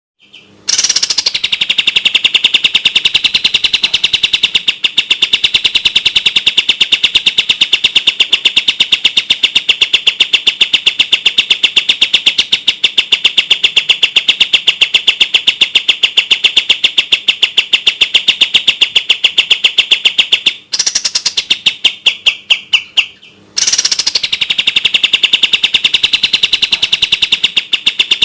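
Kapas tembak (pied triller) song. A long, very fast run of clear, evenly repeated high notes, loud and steady. About two-thirds of the way through it breaks off, stutters into a few slower notes that drop in pitch, pauses briefly, then resumes at the same rapid pace.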